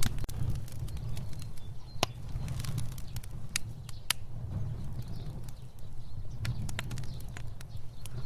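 Fire crackling: irregular sharp pops and snaps over a low, steady rumble of flame, with the loudest pop right at the start.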